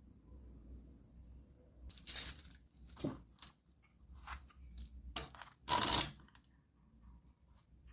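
Light clinks and clatters of small hard objects being handled and set down, in a string of short sharp sounds from about two seconds in, the loudest a short rattle near six seconds.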